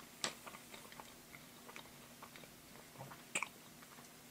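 A person chewing a mouthful of sea salt popcorn: faint, irregular crunches, the clearest just after the start and another about three and a half seconds in.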